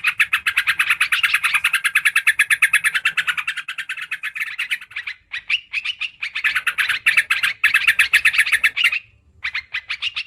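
Yellow-vented bulbul (trucukan) chattering: long, fast runs of short bright notes, about a dozen a second, breaking off briefly near the end. This is a lure call used to draw the birds in.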